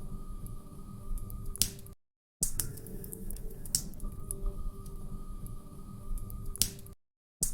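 Log fire crackling, with sharp pops over a low rumble. The sound cuts out completely for a moment twice.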